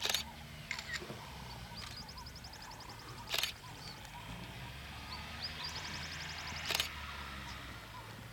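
Bush ambience: a steady low hum under high, rapid bird or insect trills that come and go, with three sharp clicks spaced about three and a half seconds apart.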